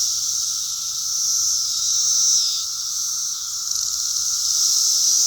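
A dense chorus of cicadas in a tree, a loud, steady, high buzzing that swells about two seconds in, eases off, and swells again near the end.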